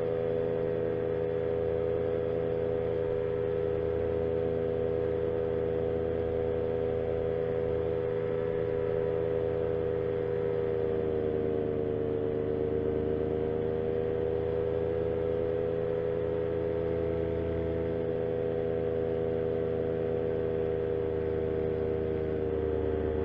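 Paramotor engine and its repaired propeller running steadily in flight. The pitch dips a little just before halfway through and comes back up a few seconds later.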